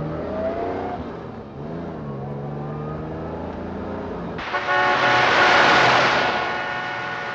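Car engine revving and accelerating, its pitch rising and shifting as the car speeds away. About four and a half seconds in, a sudden, louder, hissing sound with several steady tones in it cuts in and takes over.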